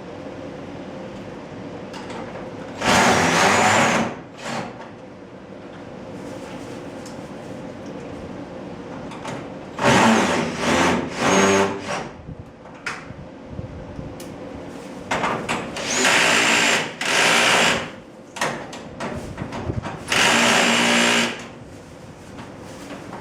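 Cordless drill driving screws in about seven short bursts of a second or less, the motor whine climbing briefly at the start of each run, over a steady low hum.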